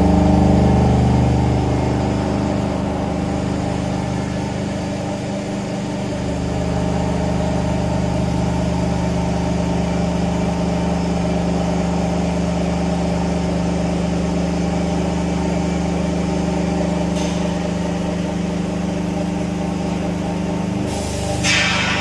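Vertical machining centre face milling with a 50 mm face mill taking a 0.5 mm deep cut under coolant: a steady cutting and spindle hum made of several held tones, its lowest part dipping briefly about four to six seconds in. A short hiss near the end.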